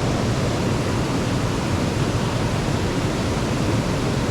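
Steady, even rush of fast-flowing water below a dam.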